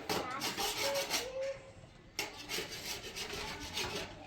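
Repeated scraping strokes, in two spells with a short pause about halfway through.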